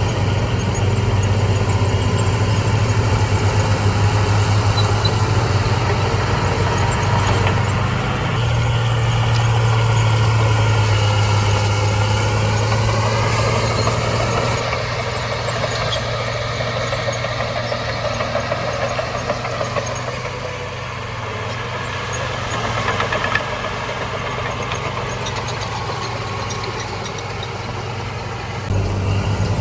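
Diesel engine of heavy earthmoving equipment running steadily with a strong low hum. The engine note shifts and eases a little about halfway, and the sound changes abruptly near the end.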